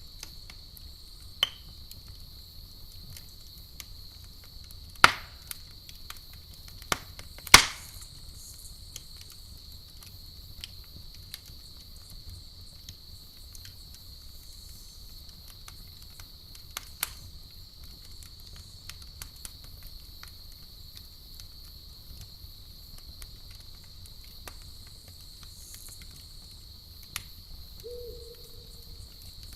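Campfire crackling with scattered sharp pops, the two loudest about five and seven and a half seconds in, over a steady high chirping of crickets.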